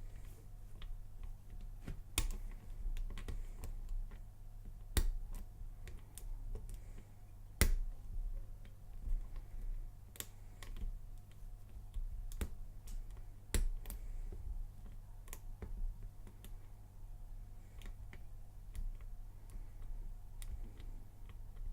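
Lock pick and tension wrench clicking and ticking irregularly in the keyway of a Lockwood laminated padlock as its pins are single-pin picked against a heavy core spring, over a steady low hum.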